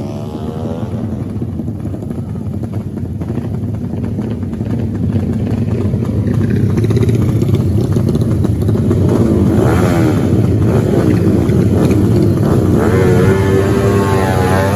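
Off-road motorcycle engines running, with revving rising and falling in pitch around the middle and again near the end as they grow louder.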